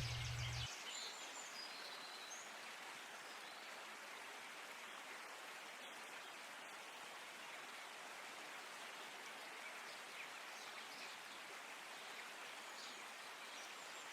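Steady outdoor nature ambience: an even hiss like running water, with a few faint bird chirps. A low hum cuts off just under a second in.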